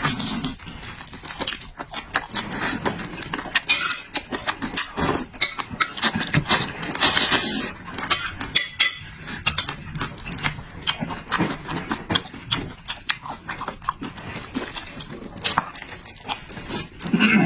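A person eating loudly close to the microphone: wet chewing and lip smacks in quick, irregular clicks, with a longer noisy stretch about seven seconds in.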